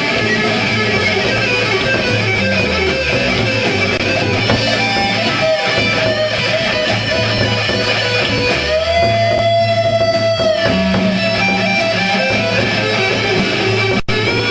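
Rock band playing live, with strummed electric guitars over bass and drums. About nine seconds in, a guitar slides into a held note that lasts about two seconds. The sound cuts out for an instant near the end.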